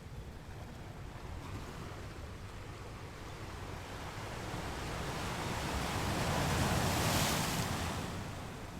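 Ocean wave washing up a beach: the surf swells from about halfway through, peaks in a bright hiss near the end, then draws back. A steady low rumble runs underneath.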